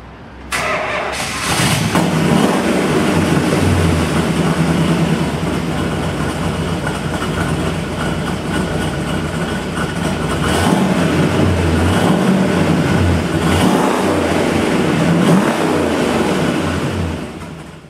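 1969.5 Dodge Super Bee A12's 440 Six Pack V8 starting, catching about half a second in, then running at idle with several brief throttle blips in the second half.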